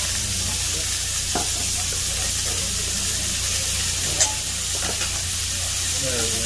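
Pork sizzling and frying on a hot iron griddle plate, a steady hiss, with a sharp tick about four seconds in.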